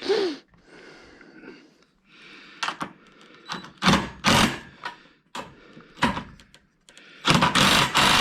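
Knocks and clunks of small parts being handled and fitted into the frame of a DIY CNC router table, with a louder noisy stretch of about a second near the end.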